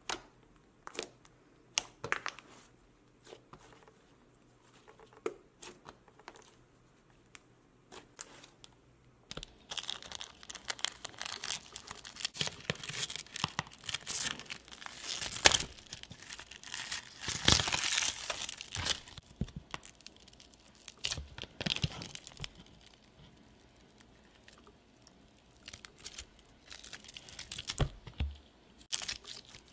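Homemade slime being squeezed and stretched by hand, crackling and popping. Scattered clicks at first, then about a third of the way in a dense run of crackling lasting some thirteen seconds, then scattered clicks again.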